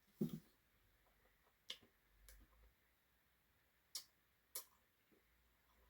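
Near silence with about four brief, faint clicks and mouth sounds of eating ice cream with a spoon.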